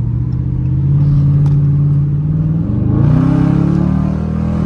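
Car engine accelerating, its pitch climbing steadily, rising more steeply about three seconds in and falling back near the end, with tyre and road hiss growing as the car speeds up.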